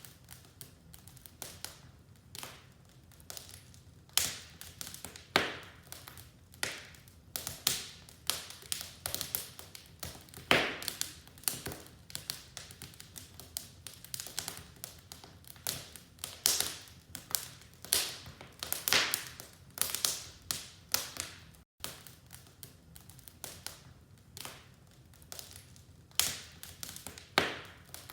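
Wood fire in a fireplace crackling: irregular sharp snaps and pops, several a second, over a faint low rumble. The sound drops out for an instant about three-quarters of the way through.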